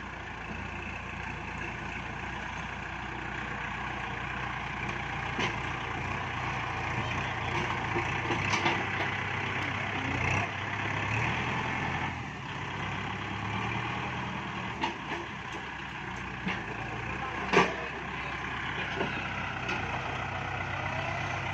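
Kubota tractor's diesel engine running steadily under work, with a few short knocks and clanks scattered through.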